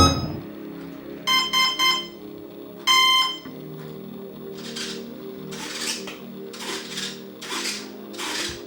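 Three short electronic beeps and then one longer beep, the tone pattern a brushless motor's speed controller plays when the RC plane's battery is connected and the controller arms. A low steady hum follows, with a soft swish about once a second.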